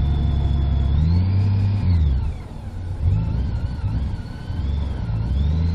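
Car engine running with a low rumble, its pitch rising and falling twice as it revs up and eases off.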